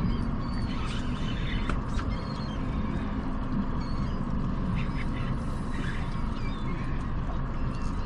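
Boat motor running steadily, with birds calling in short chirps now and then over it.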